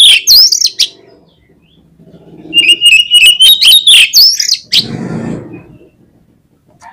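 Oriental magpie-robin (kacer) singing loud, shrill phrases, each a held rattling note that breaks into rising and falling whistles. One phrase ends about a second in and another comes about two and a half seconds in. A short rustling noise follows about five seconds in.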